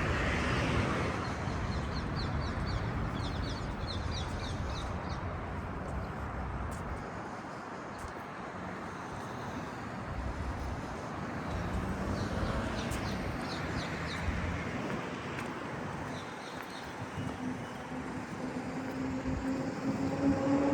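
Road traffic passing on a busy city street, with small birds chirping in short repeated bursts. Near the end a vehicle engine's pitch rises as it pulls away.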